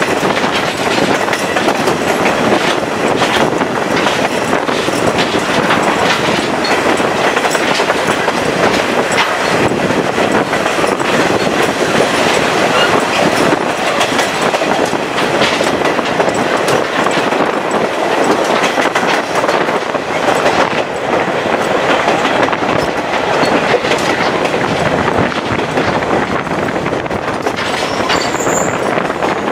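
Chepe passenger train running on the rails, heard from the side of a moving car: a steady rumble with rapid clicking of wheels over rail joints. A thin, high wheel squeal comes in near the end.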